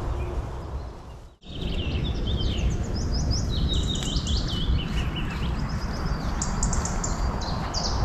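Songbirds chirping, many quick high chirps falling in pitch, over a steady low rumbling noise. The sound drops out abruptly about a second and a half in, and the birdsong starts right after.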